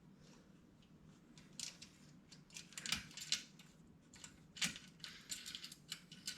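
Light metallic clicks and rattles from exhaust mounting hardware being handled and fitted: bracket, spacer and bolts tapping against each other at irregular intervals.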